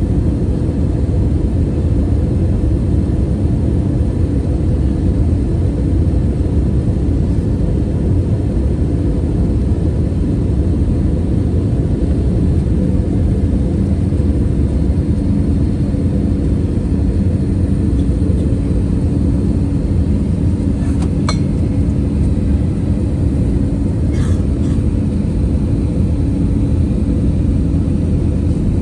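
Airliner cabin noise: the steady rumble of the jet engines and airflow, with a constant hum. Two faint clicks come about two-thirds of the way through.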